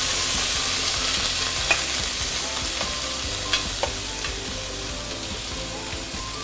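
Julienned carrots sizzling in hot garlic oil in a stainless steel pan, the sizzle slowly easing. Three sharp metallic clicks of a serving spoon against the steel bowl and pan as more carrot is scooped in.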